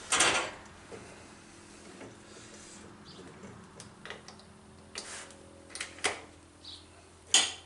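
Flood-damaged 3000-watt electric fan heater switched on and running: a sharp sound at the start, then the fan motor's steady low hum with the airflow, broken by a few scattered clicks.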